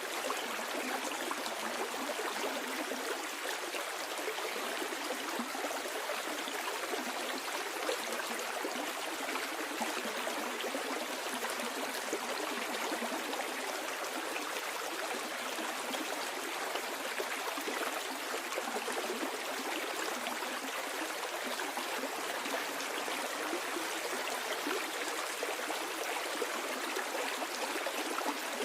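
Stream water flowing downhill, a steady babbling and gurgling rush with fine splashing detail.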